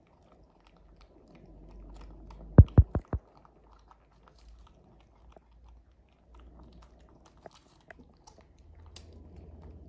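Close-up chewing and small mouth clicks from a macaque and a toddler eating jackfruit, with faint rustling as jackfruit flesh is pulled apart by hand. About two and a half seconds in come four quick, loud thumps.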